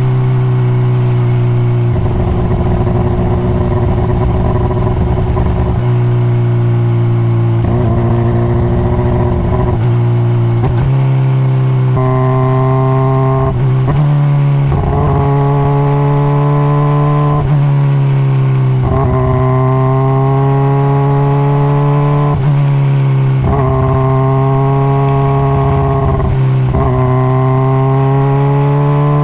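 2021 Honda CBR600RR's inline-four engine through its stock exhaust, ridden on the open road. The engine note rises and falls again and again as the throttle is rolled on and off, with short dips between the rising sweeps.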